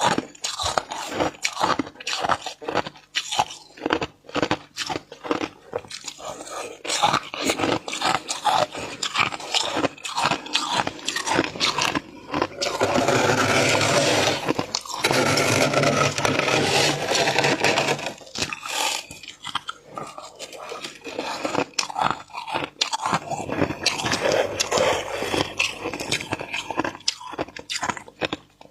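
Flaky freezer frost being scraped up and crunched while eaten, a run of crisp, irregular crunches with one longer unbroken stretch of scraping and crunching near the middle.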